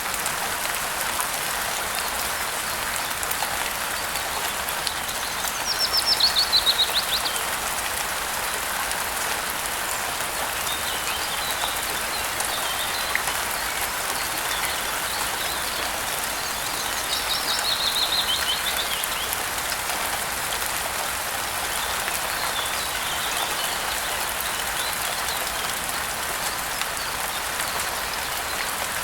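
Steady rain falling. A bird sings a short falling trill twice, about six seconds in and again after about seventeen seconds, with fainter chirps in between.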